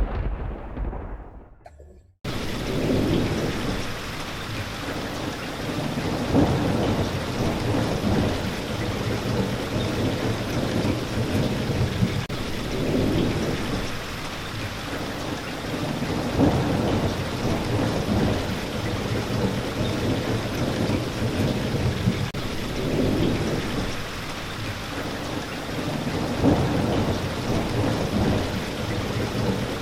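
Thunderstorm recording: steady rain with low rolling rumbles of thunder swelling every few seconds. A rumble fades almost to silence at the start, then the rain cuts back in abruptly about two seconds in.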